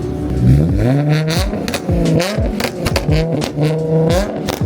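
A car engine revved hard again and again, its pitch climbing and dropping about five or six times, with sharp pops between the revs.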